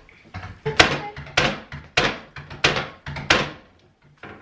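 A series of about five sharp knocks or thuds, roughly two every second, each dying away quickly.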